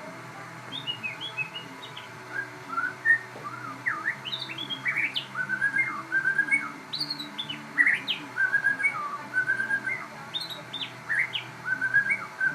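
Crossbred murai, a Copsychus magpie-robin or shama songbird, singing vigorously. It gives a long run of varied, rapid whistled phrases with quick up-and-down slurs, starting just under a second in.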